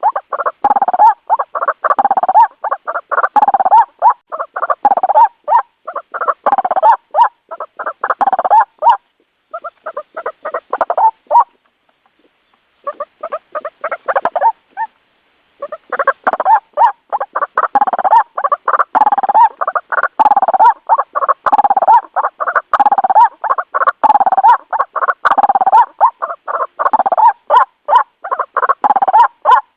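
White-breasted waterhen calling: fast runs of repeated croaking notes, several a second, with two short breaks about a third of the way through and a silence of about a second near the middle. It is the loud territorial calling used as a lure to draw waterhens in.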